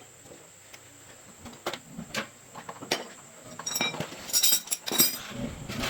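Metal parts and tools clinking and knocking together during repair work: a few separate clinks, then a quicker run of bright clinks about two-thirds of the way in.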